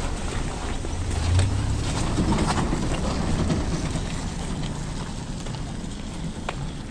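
A low rumble, like a motor vehicle passing close by, swells about a second in and fades slowly, with a few faint clicks over it.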